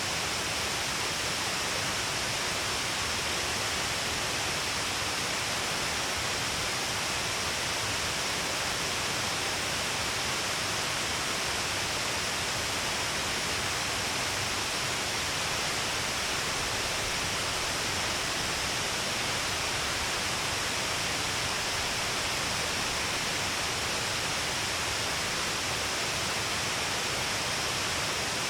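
Shiraito Falls, a long row of waterfalls pouring down a cliff face, giving a steady rush of falling water with a bright hiss and no change.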